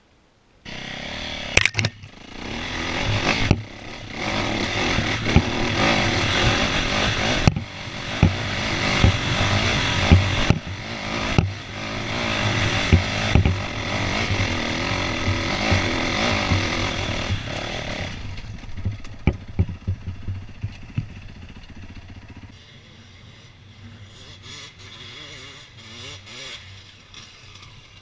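Dirt bike engine running hard and revving up and down, cutting in abruptly about half a second in. After about eighteen seconds it falls away and carries on much quieter.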